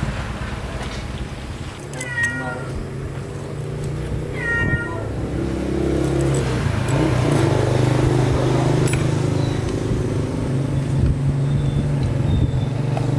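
A cat meows twice, about two and a half seconds apart, each call short and falling in pitch, over the steady low hum of a running engine that grows louder about halfway through.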